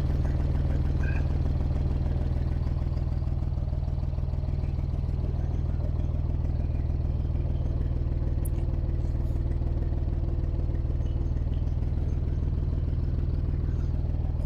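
Tractor diesel engine running at a steady speed, its constant low drone unchanged throughout.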